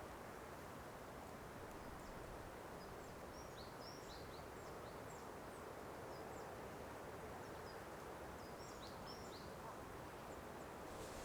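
Faint small-bird chirps and short calls, scattered and high-pitched, over a steady background hiss.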